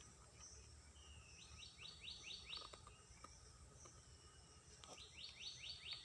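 A songbird singing faintly: two phrases, each a quick run of about five high, down-slurred notes, one a second and a half in and the other near the end, over faint steady outdoor background noise.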